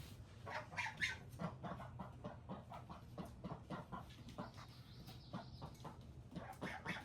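Chickens clucking: a run of short, irregular clucks.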